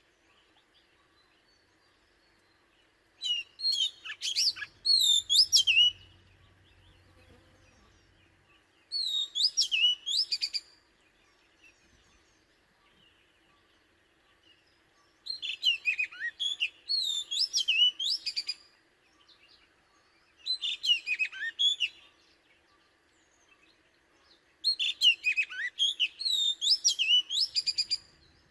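Oriental magpie-robin singing: five bouts of quick, varied whistled phrases, each one to three seconds long, with pauses of a few seconds between them.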